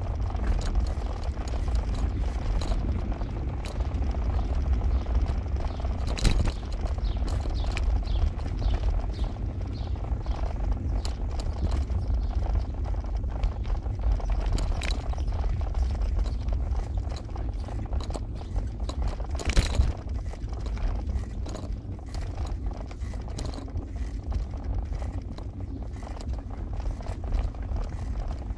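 Car driving, heard from inside: a steady low road rumble with frequent small rattles and knocks, and two louder knocks, one about six seconds in and one about twenty seconds in.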